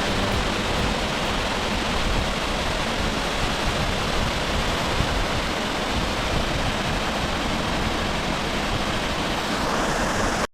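Waterfall's rushing water: a steady, even roar of falling water.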